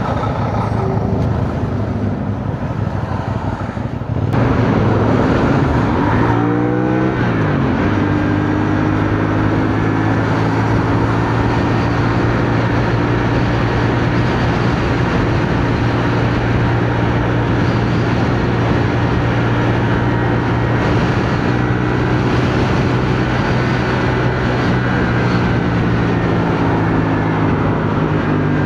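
CFMoto 450NK motorcycle engine running under way, with wind rushing over the microphone. About six seconds in, the engine note slides down, then holds a steady cruising pitch.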